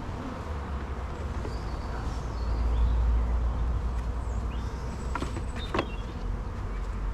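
Honeybees buzzing around an opened hive, a steady hum. A low rumble swells about halfway through, and two short knocks come a little past five seconds in.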